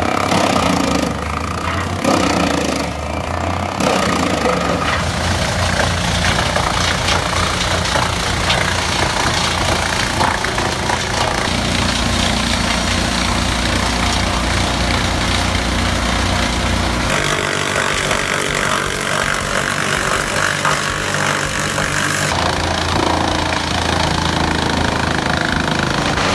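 Engine-driven wood chippers running steadily, with the sound changing abruptly twice, about two-thirds of the way through and again near the end, as one machine gives way to another.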